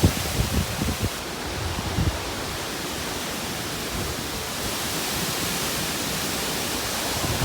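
Tropical-storm wind and rain making a steady rushing hiss, with gusts buffeting the microphone in the first couple of seconds.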